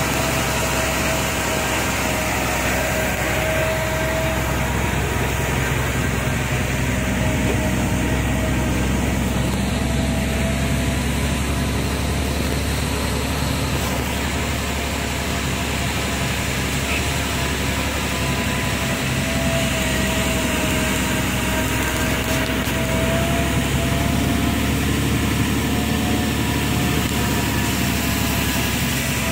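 Truck engine running steadily on a ghat climb, a low hum with road noise and a faint whine that wavers slightly in pitch.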